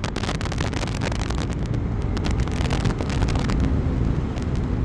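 KTM 390 Enduro R's single-cylinder engine running at a steady speed under way, with heavy wind noise on the microphone and many short clicks.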